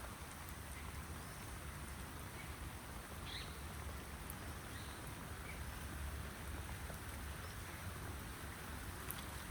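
Steady rain falling, an even hiss with a low rumble underneath, and a short high chirp about three seconds in.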